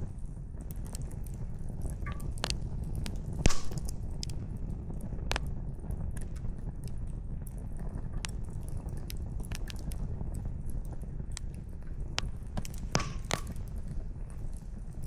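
Campfire burning, its firewood crackling and popping in irregular sharp snaps over a low steady rumble, with the loudest pop about three and a half seconds in.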